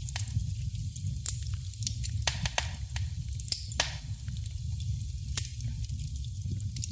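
Wood fire burning in a fireplace: a steady low rumble of the flames with irregular crackles and pops from the logs, a few sharper snaps scattered through.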